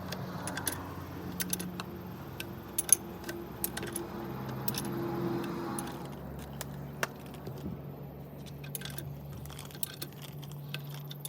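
Small metal tools and engine parts clinking and tapping in irregular sharp clicks, over a low steady hum.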